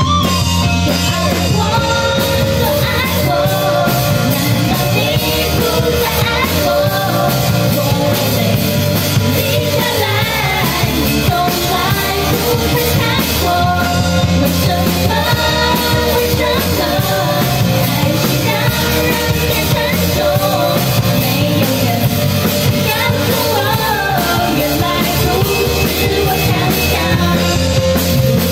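Live band music: a singer's voice over guitar, bass and drums in a rock-pop style.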